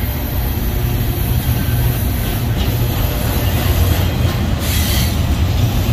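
Double-stack intermodal freight train's container-laden well cars rolling past: a steady low rumble and rattle of steel wheels on the rails.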